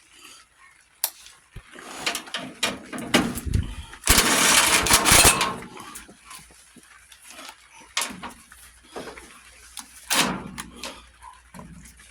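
A power tool runs in a loud burst of about a second and a half, with a shorter burst later and scattered knocks and clicks of tools on metal around it.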